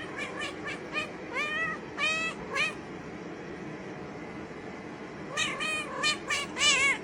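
A cat meowing in short calls that bend upward in pitch, in two quick runs of several calls with a pause of a couple of seconds between.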